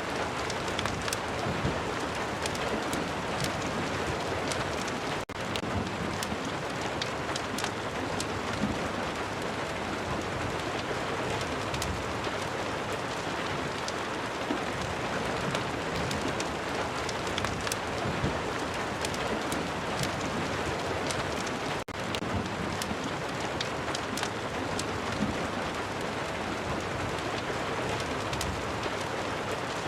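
Steady rain falling, a constant even hiss dotted with many scattered sharp ticks and crackles. It cuts out for an instant twice, about five seconds in and near twenty-two seconds.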